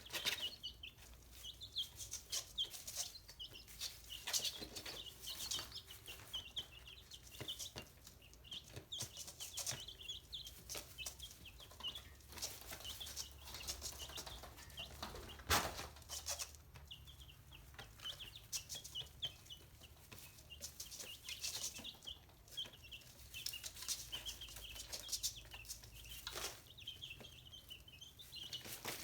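Young chickens peeping continuously, many short high-pitched calls overlapping, with scattered sharp clicks and one louder knock about halfway through.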